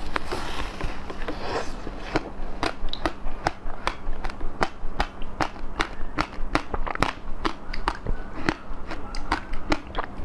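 Close-miked eating: a brief rustle, then a run of sharp, irregular crunching clicks, two or three a second, as food is bitten and chewed.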